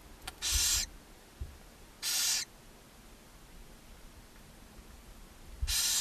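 Barn owl owlets in a nest box giving three short rasping hisses, each about half a second long: the food-begging hiss of barn owl nestlings.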